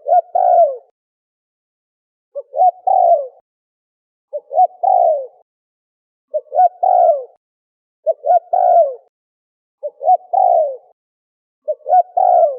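Spotted dove (terkukur) cooing: seven repeated phrases about two seconds apart, each a short coo followed at once by a longer, falling coo.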